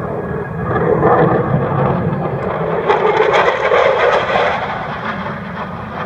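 Aircraft flying past, its engine noise swelling to a peak and then fading away.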